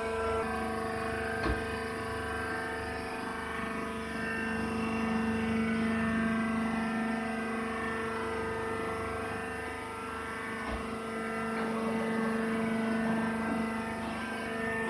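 Round baler running while baling leaves: a steady mechanical drone with a stack of even tones, and a single click about a second and a half in.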